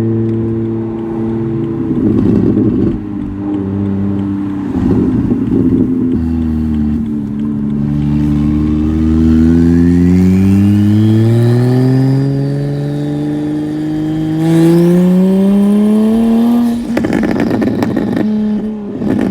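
BMW 335i's single-turbo N54 straight-six accelerating under load, its engine note climbing steadily for about ten seconds, with a thin whistle rising in pitch above it. There are rougher, noisier spells about two and five seconds in and again near the end.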